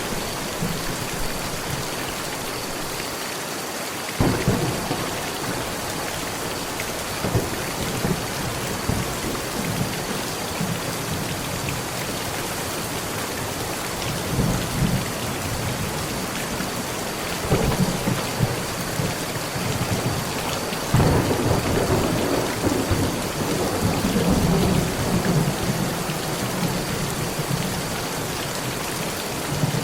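Heavy rain falling steadily on a metal roof, with thunder rumbling in several times, the first roll about four seconds in and the loudest stretch about two-thirds of the way through.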